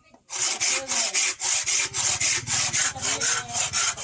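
A hand tool is worked back and forth over steel, a file or saw rasping at about four strokes a second, as the bearing-steel blade is shaped by hand.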